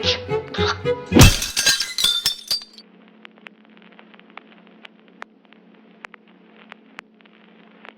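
Music cut off about a second in by a loud crash of breaking glass that rings on briefly, followed by a low hum with a few faint scattered clinks.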